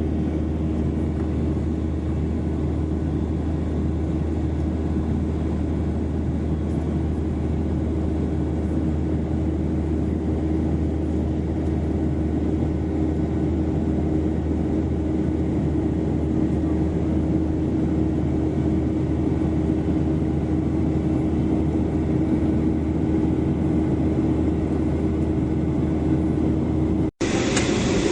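Jet airliner engines running with a steady drone and a constant low hum. About 27 s in it drops out for an instant and a slightly louder rumble follows.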